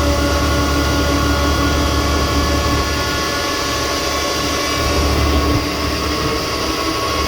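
Jet fuel truck's fuel pump and engine running steadily with a deep rumble and a steady whine, as the pumps push fuel at the start of single-point fueling. The deep rumble eases a little about five and a half seconds in.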